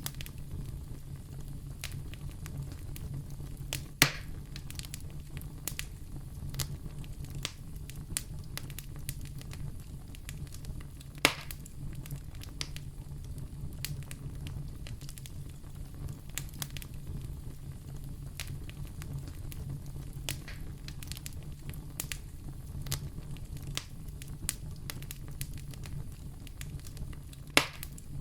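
Wood fire in a fireplace crackling, with many small snaps over a steady low rumble. Three louder pops stand out: about four seconds in, about eleven seconds in, and near the end.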